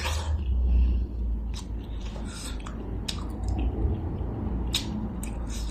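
Eating sounds: chewing, with scattered short clicks and taps, over a steady low rumble.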